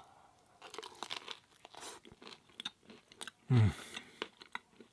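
Close-up crunching and chewing of thin, cracker-like pizza crust, a string of sharp crisp crunches. A short low falling hum from the eater comes about three and a half seconds in.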